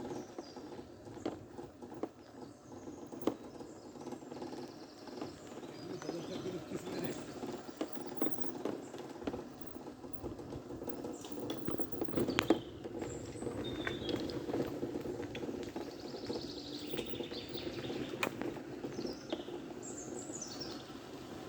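Wild birds chirping and calling in short high bursts, including a quick falling run of notes near the end, over a steady rush of flowing river water with light pattering and clicking.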